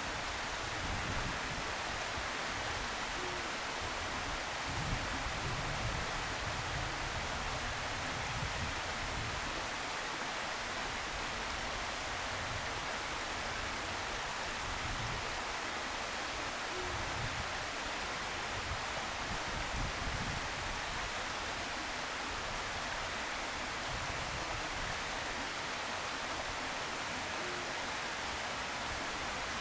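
Steady outdoor background hiss, with a low rumble that swells now and then.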